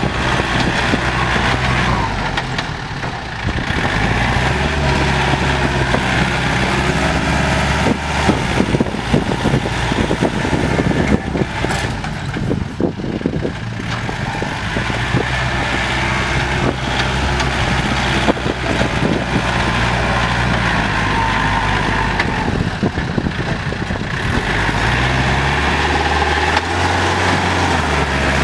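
Diesel tractor engines running under load while pushing soil, the engine note dropping and picking up again a few times. In the middle there is a stretch of clanking and knocking.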